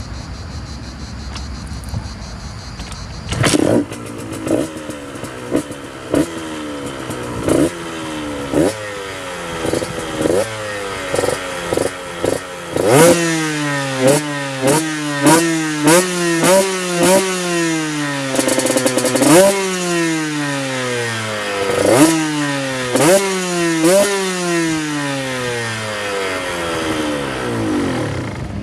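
KTM 125 two-stroke engine through a full HGS carbon exhaust, revved over and over in sharp throttle blips. The pitch leaps up and sinks back between each blip, with a low idle-like running for the first few seconds.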